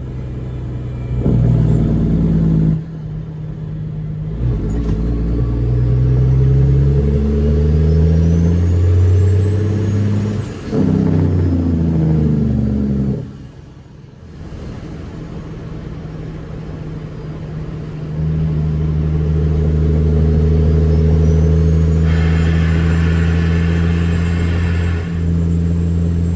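Caterpillar C13 diesel of a Kenworth W900B dump truck, straight-piped, pulling and working up through the gears: the engine note climbs, drops off at each shift and climbs again, then settles to a steady pull at road speed.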